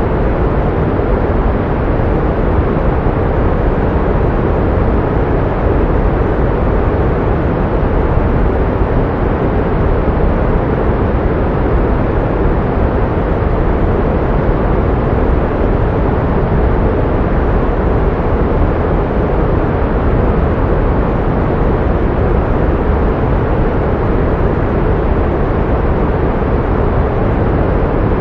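Pink noise: a steady, even hiss with more weight in the low end than in the high.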